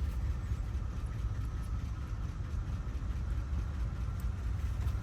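Steady low rumble of an idling engine, with a faint steady whine above it.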